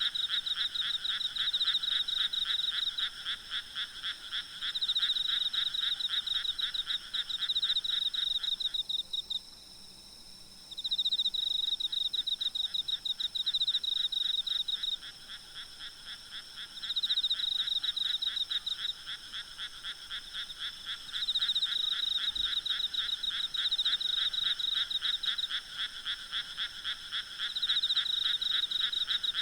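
Night chorus of frogs calling in rapid pulsed trains, rising and easing in bouts of a few seconds, with a brief lull about ten seconds in. Faint steady high insect trilling runs underneath.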